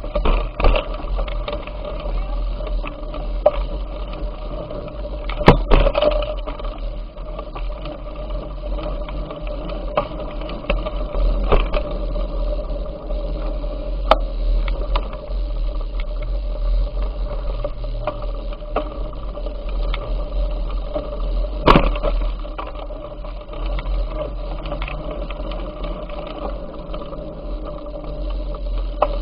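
Bicycle riding noise: a steady low rumble with a faint even hum, broken by several sharp knocks and rattles, two of them louder than the rest.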